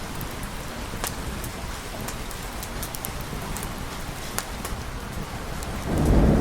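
Steady rain with scattered sharp ticks of drops. Near the end a low thunder rumble swells up.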